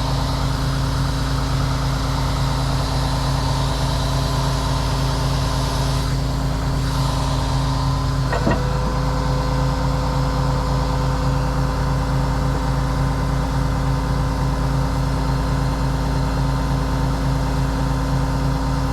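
Heavy truck's diesel engine running at a steady speed, with a brief click about eight seconds in.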